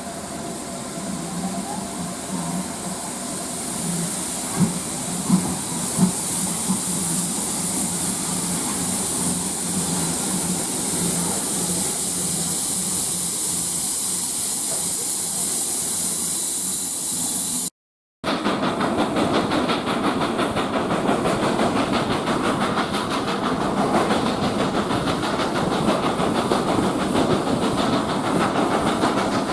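A steam locomotive giving off a steady, loud hiss of steam, with three sharp clanks about five seconds in. After a cut about two-thirds of the way through, a moving train gives a steady rhythmic clatter.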